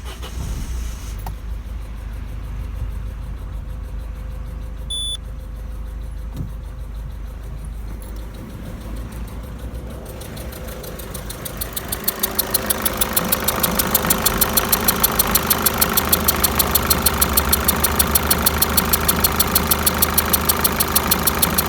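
Peugeot 207's 1.6 HDi four-cylinder turbodiesel engine idling, with a rapid, regular ticking. About ten seconds in the sound grows louder and the ticking becomes loud and dominant.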